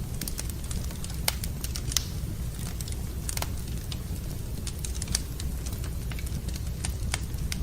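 Wood burning in a fireplace: irregular sharp crackles and pops over a steady low rumble, with the loudest pops about a second and two seconds in.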